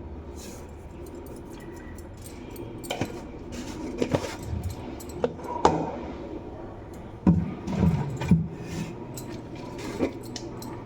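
Kitchen dishes and utensils clinking and tapping, with a scatter of sharp knocks, as spices are spooned onto raw chicken for a tikka marinade.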